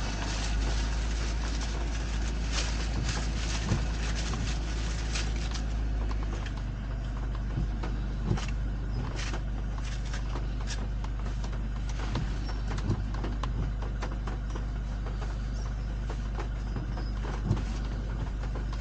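Car driving on a wet road in the rain: a steady low rumble of engine and tyres, with scattered sharp taps throughout.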